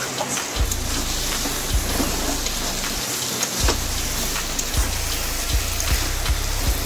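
Spiced onion-and-potato masala frying in oil in a metal kadai, a steady crackling sizzle, with a flat metal spatula scraping and knocking against the pan in irregular clicks as it is stirred.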